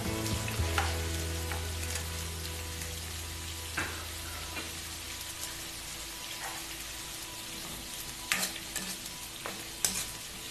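Chopped tomatoes, onion and garlic sizzling in oil in a non-stick karahi on medium-low heat, stirred with a plastic spatula that scrapes and taps the pan every second or two.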